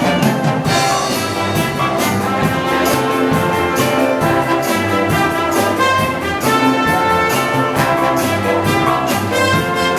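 Wind band playing a pop tune live, brass carrying the melody over a steady drum beat.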